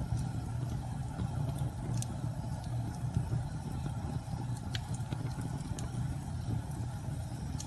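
Low, steady rumble of storm wind, with a few faint crackles and pops from a wood fire scattered through it.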